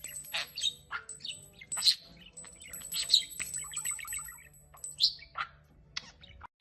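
Pet bird chirping: a string of short, sharp calls, irregularly spaced, about one or two a second.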